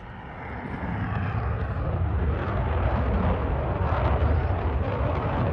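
A Thunderbirds F-16 fighter jet's engine roar as the jet makes a pass, growing louder over the first few seconds and heaviest in the low rumble.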